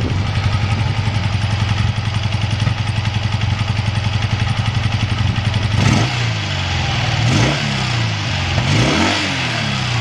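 BMW R80's air-cooled flat-twin (boxer) engine idling steadily, then blipped on the throttle about three times from about six seconds in, each rev rising and falling back to idle. It runs without abnormal noise.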